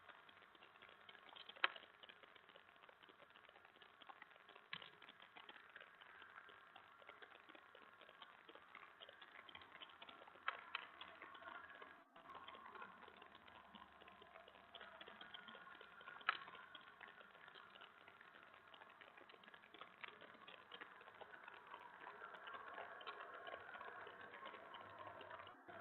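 Near silence: a faint steady hiss with a handful of sharp single clicks, the loudest about a second and a half, ten and a half and sixteen seconds in.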